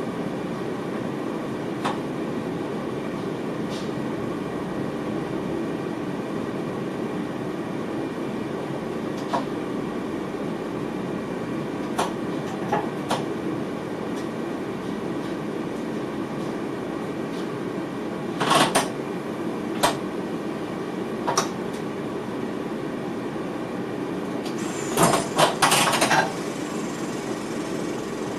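Steady hum inside the cab of a VIRM double-deck electric train, broken by scattered clicks and knocks. There is a louder cluster of knocks about two-thirds of the way through and another shortly before the end.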